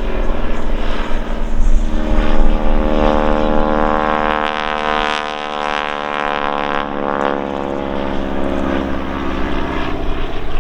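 Biplane radial engine and propeller droning as the aircraft flies by, the engine note bending up and down in pitch as it passes through the middle.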